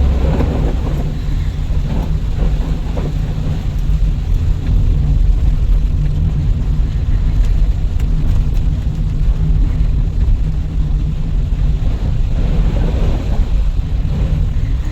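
Steady low rumble of a car driving slowly on a wet road, heard from inside the cabin, with a hiss of tyre and rain noise. It swells briefly near the start and again toward the end.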